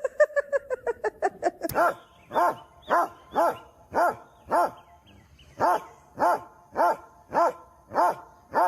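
A dog barking: a quick run of short yaps that slowly drop in pitch, then steady single barks about every half second, with a brief pause midway.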